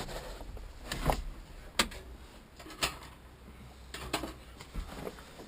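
A handful of irregular sharp clicks and knocks, roughly a second apart, the sharpest a little under two seconds in.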